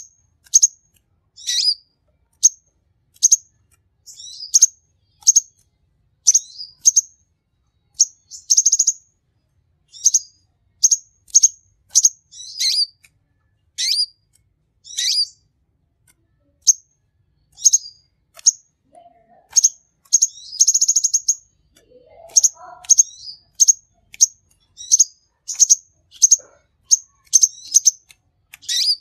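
Sunbird (kolibri konin) singing in a lively stream of short, sharp high chirps, about one to two a second, broken by two fast buzzy trills about a third and two-thirds of the way through.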